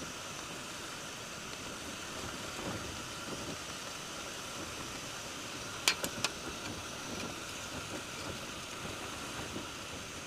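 Steady rain falling, with three sharp clicks close together about six seconds in.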